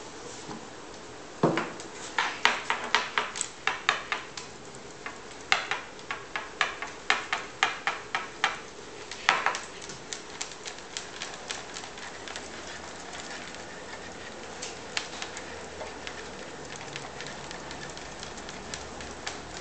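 A run of sharp clicks, about two to three a second, loud for about eight seconds, then fainter and more scattered.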